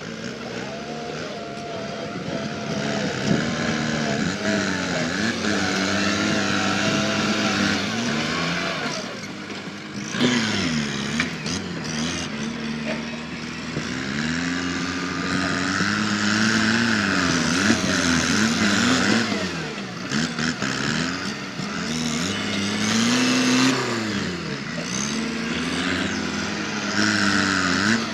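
Kubota tractor's diesel engine working hard, its pitch rising and falling again and again as it is revved and loaded while pushing through brush.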